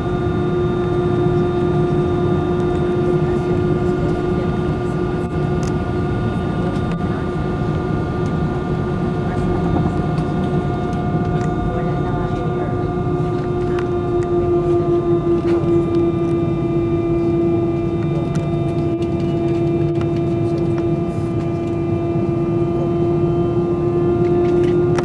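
Steady in-flight cabin drone of an Airbus A320-200: engine and airflow noise with a constant hum tone over it.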